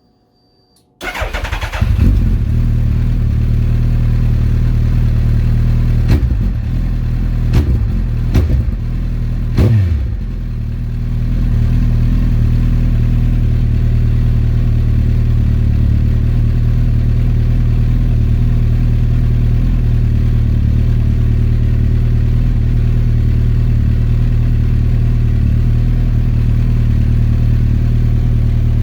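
A 2008 Suzuki Hayabusa's inline-four engine, breathing through a 4-into-1 Akrapovic exhaust, fires up about a second in. It rises briefly in revs a few times and then settles into a steady idle.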